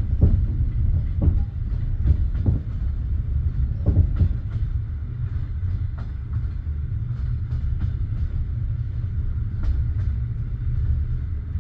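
Passenger train carriage with a steady low rumble and irregular sharp knocks from the wheels rolling over rail joints and points.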